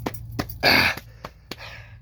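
A loud, sharp breath of effort about half a second in, and a softer breath near the end, with a few sharp knocks and clicks of someone clambering around a truck cab.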